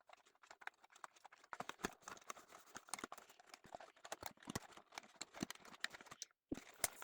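Irregular clicks, taps and crinkles of a doll's cardboard-and-plastic packaging being handled and worked open by hand. The sound breaks off briefly near the end.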